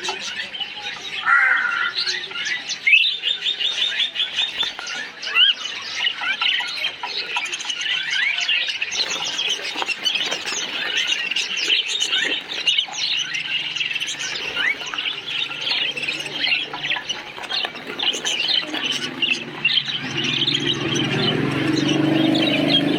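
A colony of parakeets chirping and squawking together, many quick overlapping calls at once. A low drone comes in beneath the chirping in the last few seconds.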